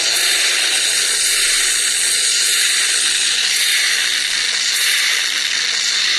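A loud, steady hiss with no breaks, its energy in the upper range.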